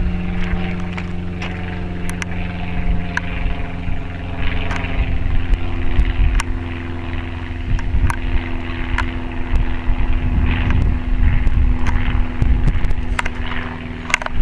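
An engine running steadily, its pitch rising about five seconds in, with scattered sharp clicks and knocks over it.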